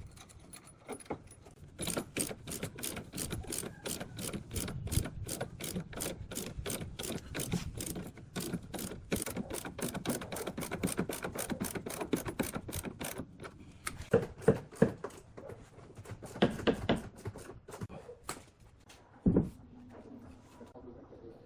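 A fast, even run of sharp clicks or taps, about four a second, for roughly eleven seconds. It is followed by a few heavier knocks and a single low thump near the end.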